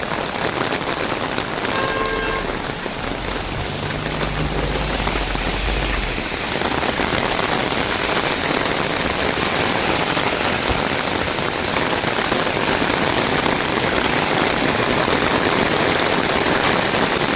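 Heavy rain falling steadily. A brief faint tone sounds about two seconds in, and a low rumble comes in under it for a few seconds soon after.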